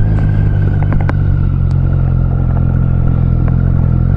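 Triumph Street Triple 660's three-cylinder engine running at a steady cruise on a gravel road, with a steady whine above the engine note and a few short sharp ticks scattered through.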